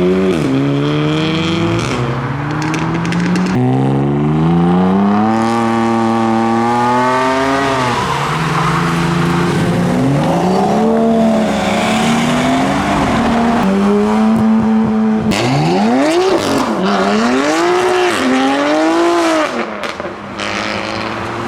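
Modified cars leaving one after another, each engine revved hard and climbing steeply in pitch before falling back, with quick sharp revs in the last few seconds.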